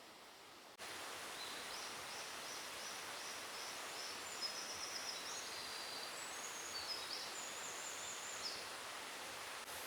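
Forest ambience: a steady background hiss that comes in abruptly about a second in, with a small songbird singing high notes over it, first a quick run of repeated short notes and then varied phrases.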